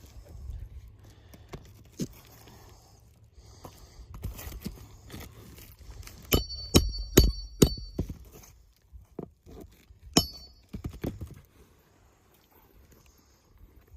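Irregular knocks and scuffs from work on an asphalt shingle roof, with a cluster of sharp metallic clinks that ring briefly about six to eight seconds in and another about ten seconds in.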